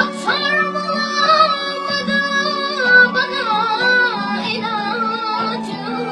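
A high female voice singing a melody, holding long notes and bending them in wavering, ornamented runs, over a steady instrumental accompaniment.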